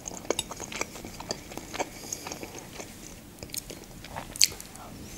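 Close-up chewing and wet mouth clicks of someone eating soft fusilli pasta in canned stewed meat and broth, with a metal fork now and then touching the glass dish; the sharpest click comes about four and a half seconds in.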